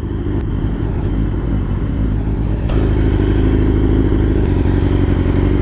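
Yamaha R6's inline-four engine running steadily, getting a little louder about halfway in.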